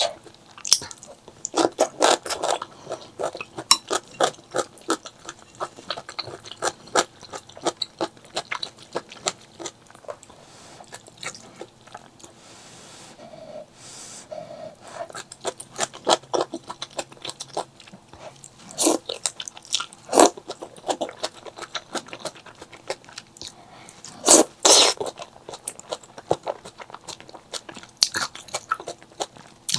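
Close-miked eating: crunchy chewing in quick, irregular clicks, with several louder bites.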